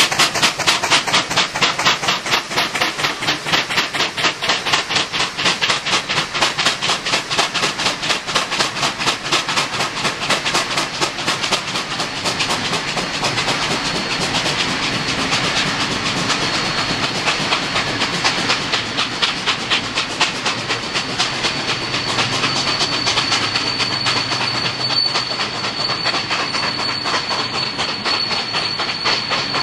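Two C38 class steam locomotives double heading a train, a rapid, even run of exhaust beats with the clatter of the train, the beats softening into a steadier rush about halfway through. A thin, steady high tone joins in about halfway and holds.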